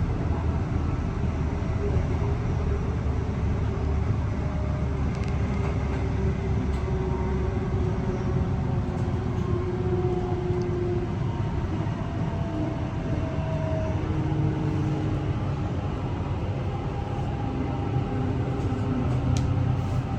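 Mariyung D-set electric train running: a steady low rumble with faint motor whine tones sliding slowly up and down in pitch.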